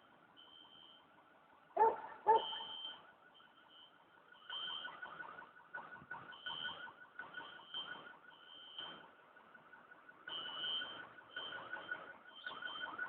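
Car alarm sounding at a distance, cycling through fast repeating chirps and warbling tones. Two short, louder sounds come about two seconds in.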